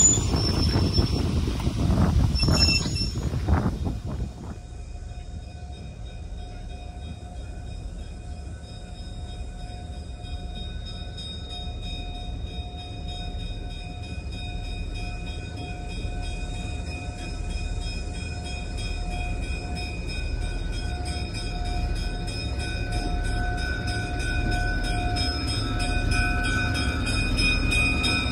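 Stainless-steel passenger cars rolling past close by, wheels clattering on the rails, for the first four seconds. Then a diesel locomotive, an EMD E5A, approaching with its bell ringing steadily, its engine rumble growing louder as it nears.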